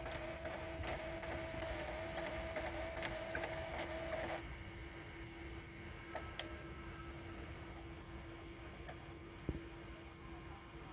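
Sony EDV-8000 ED-Beta video recorder's tape transport running: a wavering motor whine over a steady lower hum, with scattered mechanical clicks. The whine stops about four seconds in, and a sharper click comes near the end. The clicking goes with a takeup reel that is not turning freely.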